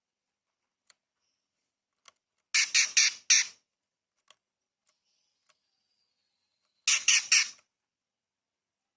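Cucak cungkok leafbird giving two short bursts of rapid, harsh rasping notes, about four notes about two and a half seconds in and three or four more near seven seconds, with a faint thin whistle in between.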